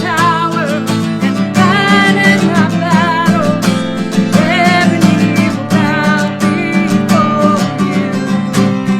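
Worship song: a singer holding wavering, vibrato-laden lines over steadily strummed accompaniment.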